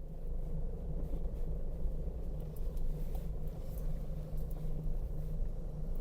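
A car driving along, a steady low engine and road rumble.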